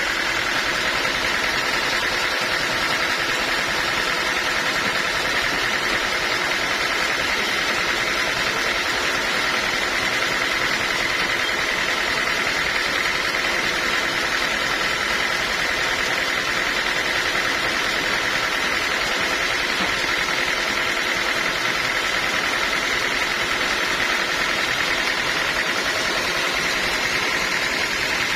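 Band sawmill running steadily, a constant machine drone with a steady high whine over it.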